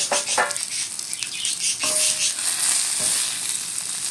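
Okra frying on a hot iron tawa: a steady sizzle, with a spatula scraping across the griddle and stirring the okra a few times, and a cluster of sharp clacks at the very start.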